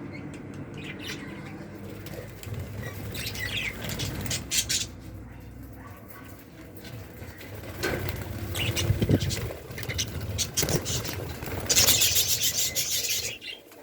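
Pet budgies chirping in short bursts amid rustling, clicks and fluttering, with a loud rustling flurry near the end.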